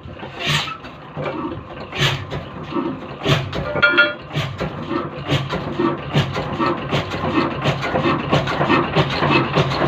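Old 22 hp desi diesel engine firing just after starting, its slow thumps picking up speed to a steady beat of about three a second as it comes up to running speed.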